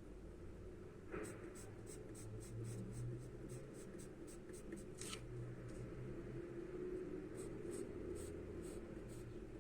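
Charcoal scratching across paper in quick short strokes, about three a second, with a pause of a couple of seconds midway, over a low steady hum.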